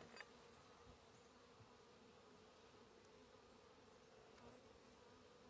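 Faint, steady hum of a honeybee colony in an open hive, with a soft click or knock right at the start.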